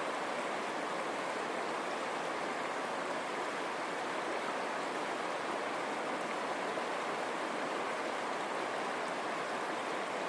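River water running over stones, a steady rushing of water.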